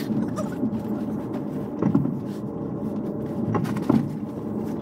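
Passenger train running along the rails, heard from inside the carriage: a steady rumble with two sharper knocks, about two and about four seconds in.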